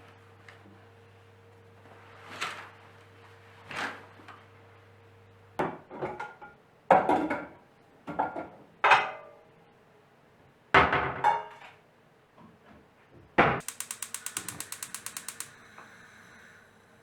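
Scattered knocks and clatter of household objects being handled, then a sharp knock and a fast run of ticks lasting about two seconds.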